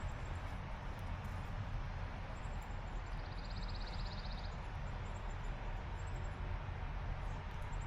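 Steady low road rumble inside a car cabin while driving at speed. A short, fast, high trill is heard about three seconds in.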